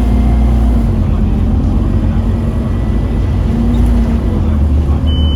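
Scania OmniCity double-decker bus's five-cylinder diesel engine being driven hard, a deep steady drone with a faint high hoover-like whistle over it. A brief high beep sounds near the end.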